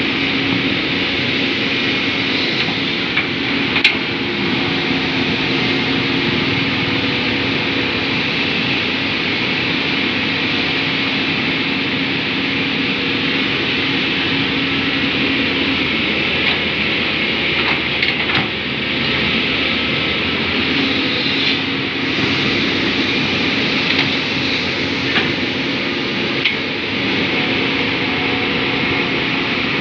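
Caterpillar hydraulic excavators' diesel engines running steadily, with a constant hum and a few sharp metallic clanks scattered through.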